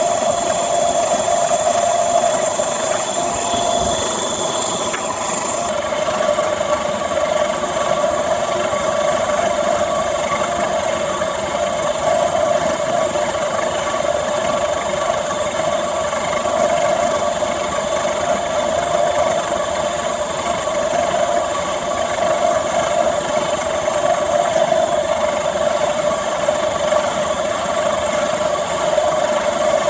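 Small homemade charcoal-briquette extruder driven by a low-wattage water-pump electric motor, running steadily with a constant mechanical hum and vibration.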